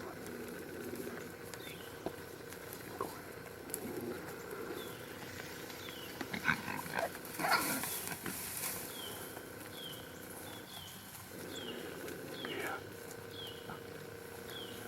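Feral hogs grunting, with irregular louder grunts and squeals clustered in the middle. Short, high, falling chirps repeat about twice a second through the second half.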